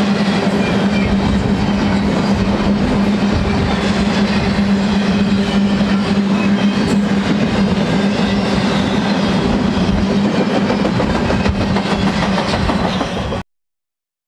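Empty double-stack intermodal well cars of a freight train rolling past, wheels clacking over the rail joints with a steady low hum beneath. The sound cuts off abruptly near the end.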